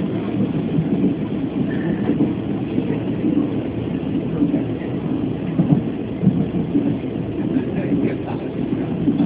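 Chu-Kuang express train running along the track, heard from inside the passenger carriage as a steady rumble of wheels on rails and carriage noise.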